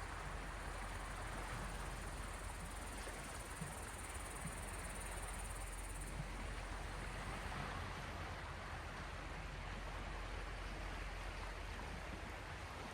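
Small waves of the Gulf of Finland washing steadily against the shore, an even watery hiss without distinct breaks.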